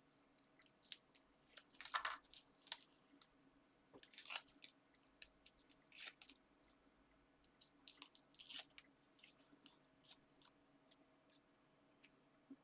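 Quiet, scattered crinkles and light clicks of paper and card being handled as foam pads are stuck onto card toppers and their backing peeled.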